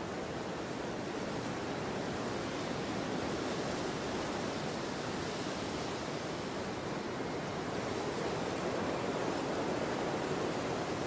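Storm wind blowing steadily: an even rushing noise that swells slightly in the last few seconds.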